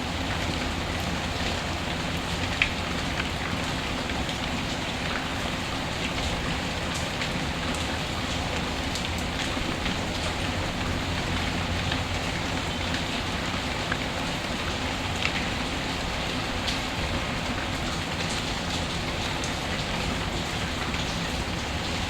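Steady rain mixed with a crackling wood fire: an even hiss with scattered sharp pops, the loudest about two and a half seconds in.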